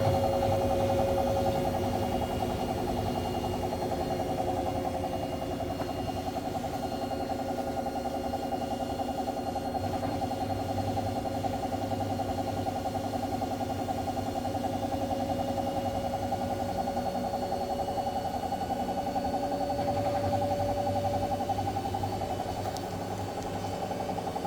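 Hoover H Wash 700 washing machine spinning an empty drum: a steady motor whine over a fast, continuous knocking rumble. The owner suspects a fault in the new machine, since the knocking doesn't sound right.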